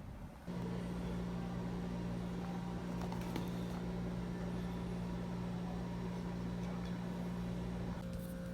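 Microwave oven running, a steady electric hum that starts suddenly about half a second in. Near the end the hum changes and a higher steady tone joins it.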